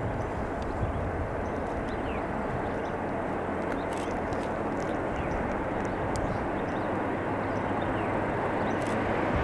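Steady low rumble of an approaching ore train's locomotives, growing slowly louder.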